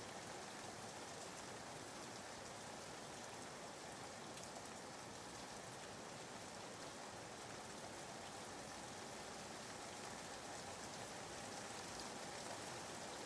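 Soft, steady rain ambience: an even hiss of rainfall with faint scattered drop ticks, laid in as background white noise.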